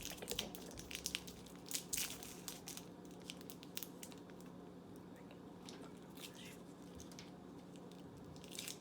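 Candy wrapper crinkling and tearing as a cherry Airheads taffy bar is unwrapped, a run of sharp crackles that thins out in the middle and picks up again at the end.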